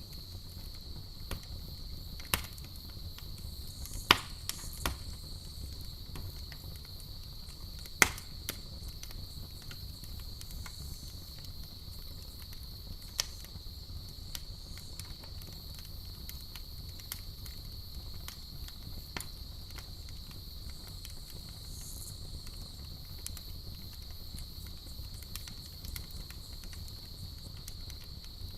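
Campfire crackling with scattered sharp pops, the loudest about four and eight seconds in, over a low rumble of the flames and a steady high-pitched cricket trill.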